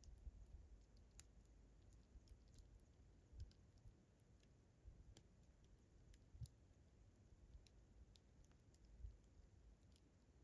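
Campfire crackling faintly: scattered small pops and snaps from the burning wood, with a few soft low thuds.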